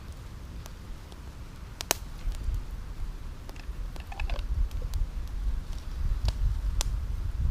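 Campfire coals crackling with scattered sharp pops, the loudest about two seconds in, over a low rumble that grows louder from about two seconds.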